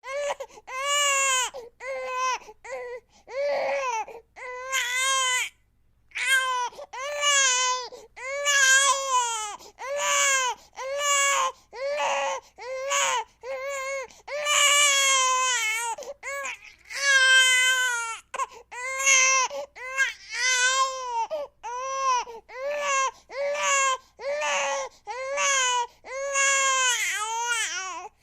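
Baby crying: a steady run of short wails, about one a second, each rising and falling in pitch, with a brief pause about six seconds in.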